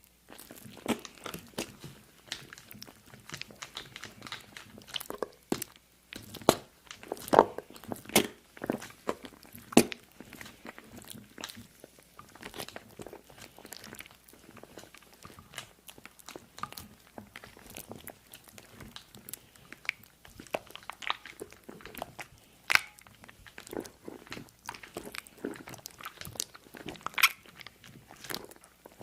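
Close-miked crunching and chewing: a dense, irregular run of crisp crunches, with a few louder bites now and then.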